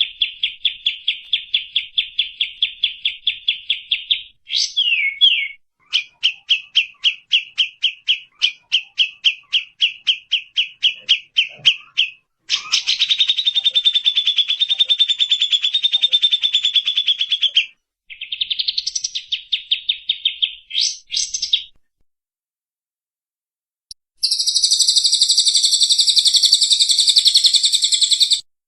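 Songbirds singing in a spliced run of phrases: fast strings of repeated high chirps, then a long rapid trill and shorter trills, each segment cutting off abruptly. After about two seconds of silence near the end, a louder, higher, buzzy rattling song starts.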